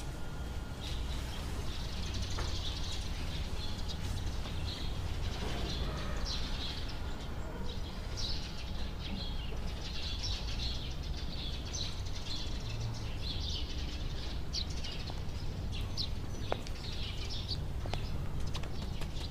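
Small songbirds chirping and twittering in quick repeated bursts, over a low steady background hum.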